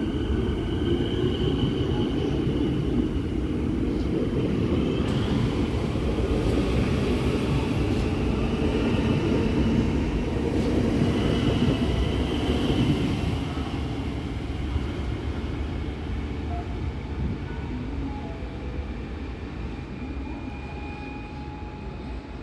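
Siemens Nexas electric train pulling away past the listener, its wheels rumbling on the rails with high whining tones over the top. The sound is loudest until about thirteen seconds in, then fades as the train draws off down the line.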